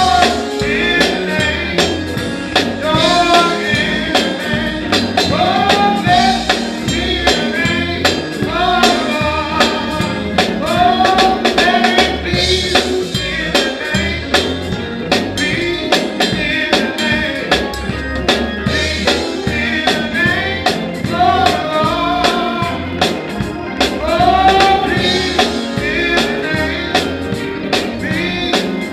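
Gospel praise music: singing backed by drums and other instruments, with a short sung phrase that repeats every few seconds.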